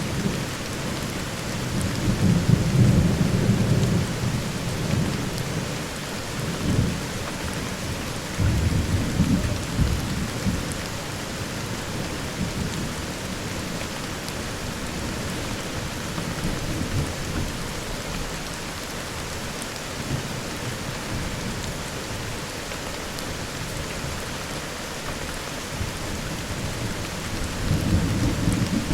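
Steady rainstorm: an even hiss of rain falling, with low rumbles of thunder rolling in, a long one a few seconds in, shorter ones around seven and nine seconds, and another near the end.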